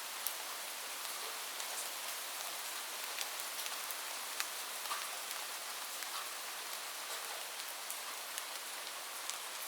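Heavy rain falling on a roof: a steady hiss with scattered sharp ticks of individual drops striking close by. No thunder.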